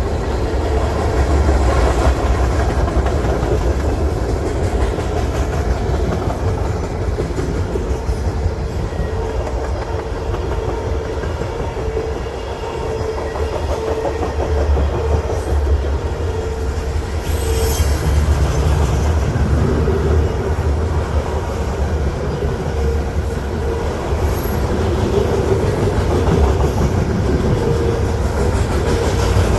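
Long mixed freight train rolling past with a steady low rumble and wheels clicking over the rail joints. A faint wavering tone comes and goes, and a brief high squeal sounds a little past halfway.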